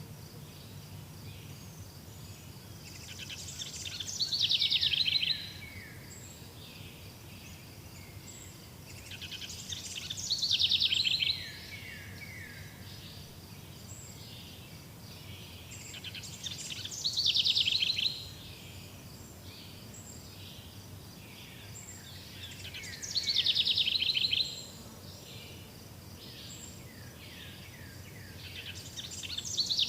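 A songbird repeats the same song phrase five times, about every six seconds. Each phrase is a fast trill of about two seconds that falls in pitch. Faint high insect chirring goes on steadily underneath.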